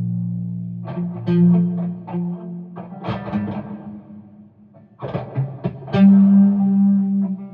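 Guitar being strummed without singing: a few chords struck about a second in and around three seconds, then more near five and six seconds, the last chord left ringing.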